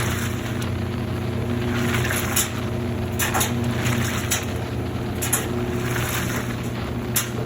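Midea 13 kg washing machine running mid-cycle: a steady motor or pump hum with water and laundry sloshing, and a few light clicks.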